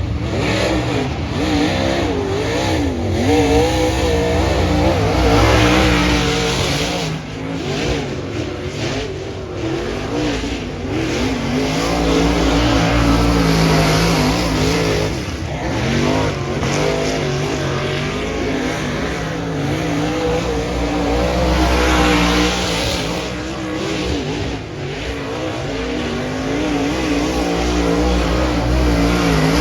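Dirt modified race car's V8 engine running hard at racing speed, its note rising and falling as it goes around the oval and backing off briefly about every eight to nine seconds.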